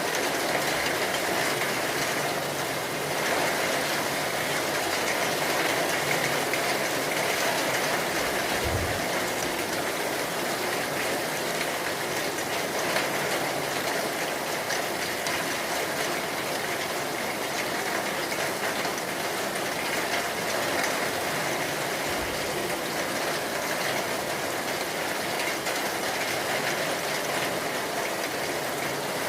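Steady rain falling, an even hiss with no letup, with two faint low thuds, one about nine seconds in and one about twenty-two seconds in.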